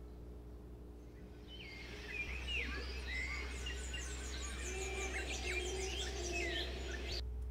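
Several small birds chirping and twittering over a low steady hum, starting about a second and a half in and cutting off abruptly near the end.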